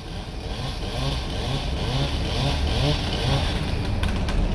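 An engine running steadily, with faint voices underneath.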